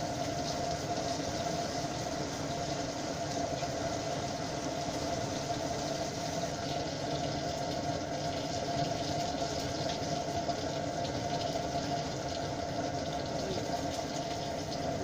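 Crucian carp frying in a pan over a burner: a steady sizzle with a constant hum under it.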